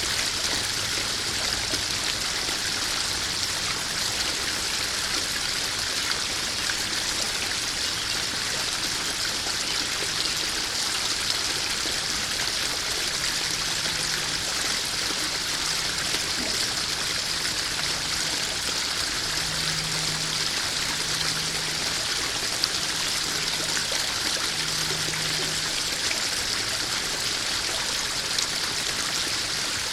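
Small garden waterfall splashing and trickling steadily into a koi pond, an even, unbroken rush of water.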